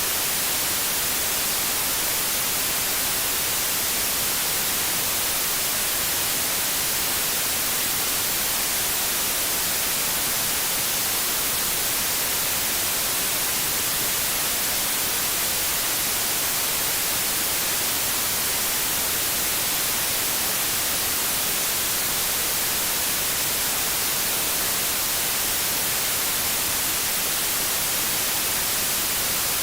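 Steady TV static: an even white-noise hiss, strongest in the high frequencies, without any change.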